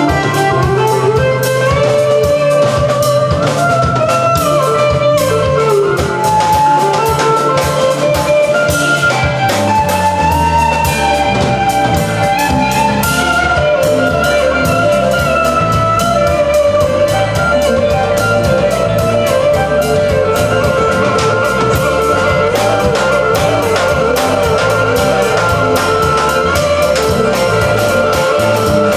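Live country band playing an instrumental passage: melodic lead lines over guitar and drum kit, with a walking bass line coming in about ten seconds in.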